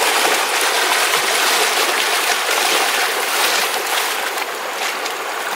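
Running water, a steady rushing like a stream flowing, with a few faint splashes.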